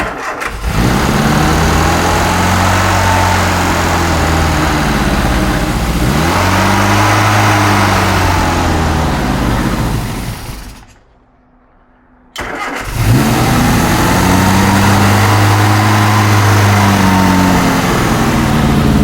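Freshly rebuilt BMC A-series four-cylinder engine of a 1966 Morris Mini Cooper S on one of its first starts, running with its revs rising and falling twice. About eleven seconds in it dies, then catches again about a second and a half later and runs on with its revs rising and falling.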